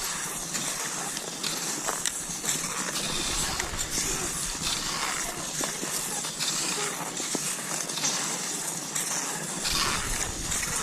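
Cross-country skis swishing over snow in a regular stride rhythm, a swell about every second or so, with light clicks from the poles planting.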